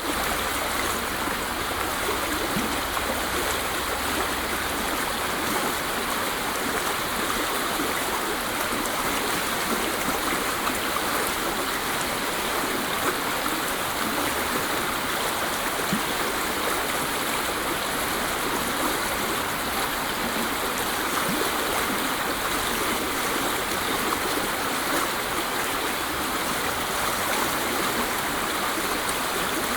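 Waterfall: falling water rushing steadily and evenly, a constant hiss with no breaks.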